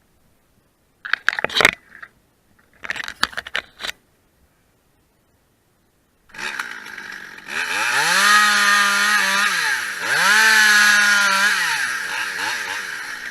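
Two short bursts of noise, then a two-stroke chainsaw starts about six seconds in, runs briefly at idle and is revved to full throttle twice, dropping back between.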